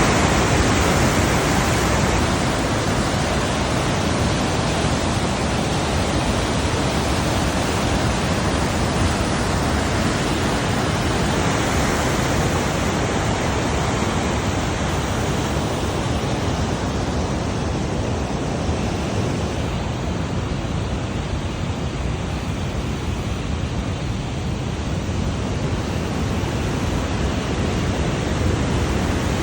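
Shuonijoki waterfall: the loud, steady rush of falling water.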